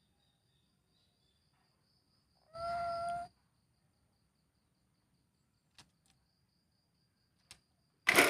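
A lory parrot gives one short call at a steady pitch about two and a half seconds in, followed by a couple of faint clicks, and a louder noisy burst begins near the end. A faint high steady tone runs underneath throughout.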